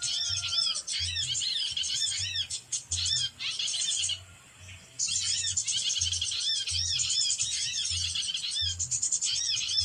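A recorded bird-lure call playing on a loop: dense, rapid high chirps over an even, low thumping beat. The call cuts out briefly about four seconds in, then starts again.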